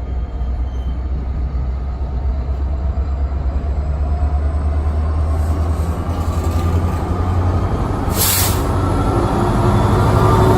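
NJ Transit commuter train running past with a heavy low rumble that grows steadily louder as it approaches, and a short burst of hiss about eight seconds in.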